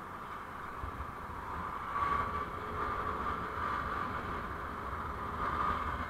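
Driving noise from a vehicle on the road: a steady rumble and hiss that swells about two seconds in and again near the end.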